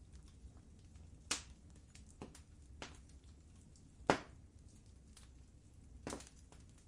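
Wood fire crackling in a fireplace: a low steady rumble of the flames under scattered small snaps and several louder pops, the loudest about four seconds in.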